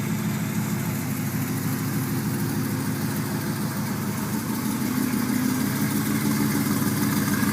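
Cammed 2007 Ford Mustang GT's 4.6-litre V8 idling through long-tube headers, an off-road H-pipe and Pypes pipe-bomb mufflers, a steady exhaust note that gets a little louder in the last couple of seconds.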